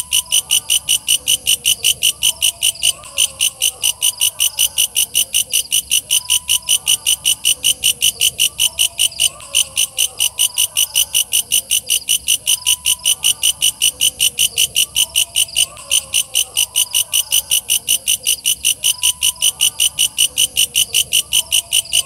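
A walang kecek katydid calling: a fast, even train of shrill, buzzy chirps, about five a second, without a break.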